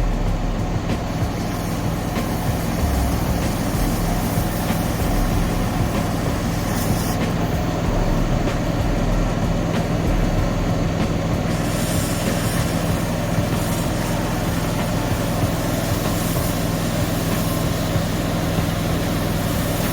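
Cutting torch running steadily as it cuts out a new steel plate, a continuous hiss over a steady low machine hum.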